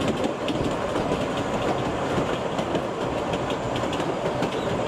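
Kurobe Gorge Railway narrow-gauge trolley train running along the track, its wheels and cars clattering and rattling steadily, heard from aboard an open passenger car.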